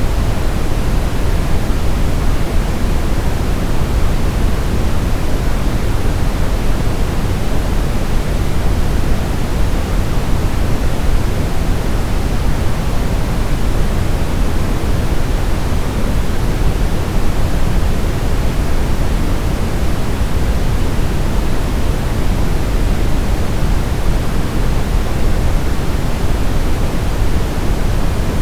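Steady generated sleep noise: a constant, unchanging hiss with most of its weight in the low end and less toward the top, like pink noise.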